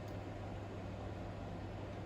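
Steady low hum and hiss of background room tone, with no distinct event.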